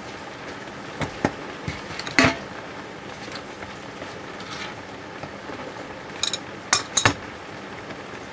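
Hard metal parts and tools clinking and knocking in a series of separate sharp strikes. The loudest comes about two seconds in with a short ring, and a quick cluster of three follows near the end, over a steady low hiss.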